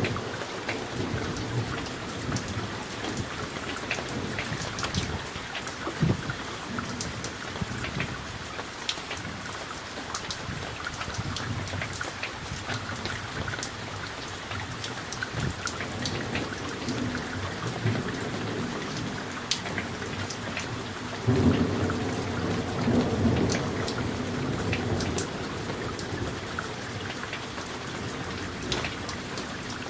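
Summer thunderstorm: steady rain with individual drops ticking close by, under low rolling thunder. A louder thunder rumble breaks in suddenly about two-thirds of the way through and rolls on for a few seconds.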